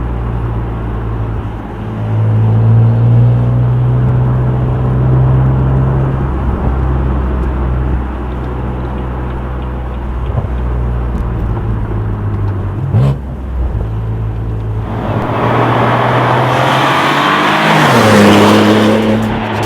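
BMW F8x M3/M4's twin-turbo straight-six through a Fabspeed valved cat-back exhaust, running with a steady low drone, then from about fifteen seconds in pulling hard, much louder with the pitch climbing.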